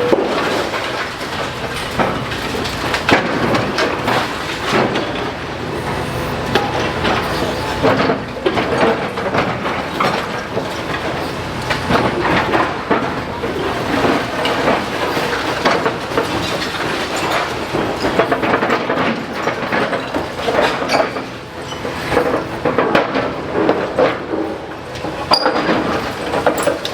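Demolition excavator at work, with a continuous crunching and clattering of broken masonry and rubble full of sharp knocks over a steady machine noise.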